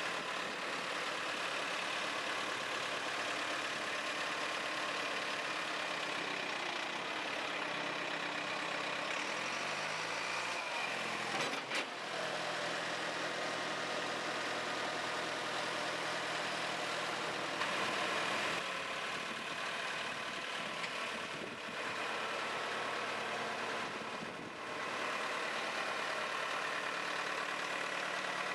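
Diesel engine of a JCB 3CX Sitemaster backhoe loader running steadily, its engine speed shifting briefly about ten seconds in, with a single sharp click soon after.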